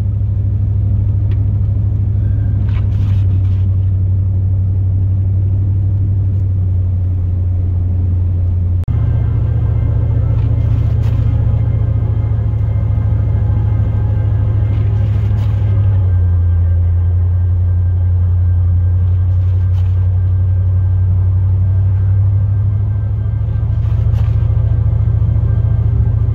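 Pickup truck's engine and road drone heard from inside the cab while driving: a steady low hum that shifts pitch about nine seconds in and again about sixteen seconds in.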